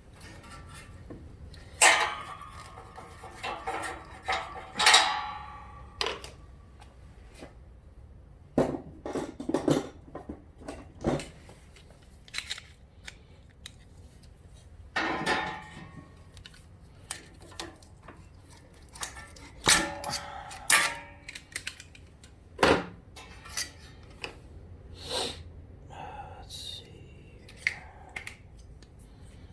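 Metal hand tools and parts clinking and clattering at irregular intervals, some knocks ringing briefly, as a spark tester is fitted to a riding mower's spark plug.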